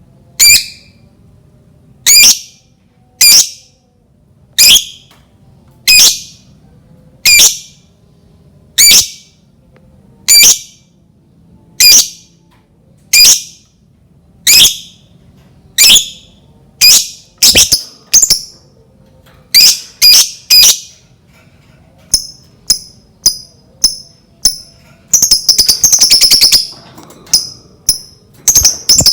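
Lovebird calling: a shrill squawk repeated about every second and a half, coming faster past the middle, then short quick chirps and, near the end, a brief rapid chattering trill. This is a lovebird lure call of the kind played to set other lovebirds calling.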